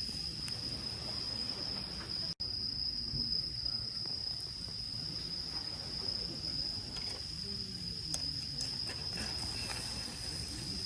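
Crickets chirping in an unbroken high-pitched chorus, with the sound dropping out for an instant about two seconds in.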